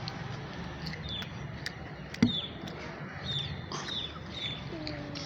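A small bird chirping repeatedly: short, high, falling chirps every half-second or so, over a steady background hiss. There is one sharp knock a little past two seconds in.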